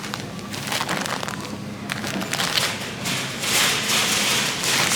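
Plastic packaging crinkling and rustling with many small clicks, getting louder about three and a half seconds in.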